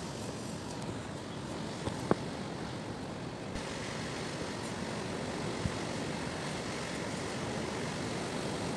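Strong gusty wind blowing across the microphone in a steady rush of noise, with a sharp click about two seconds in and a fainter one later.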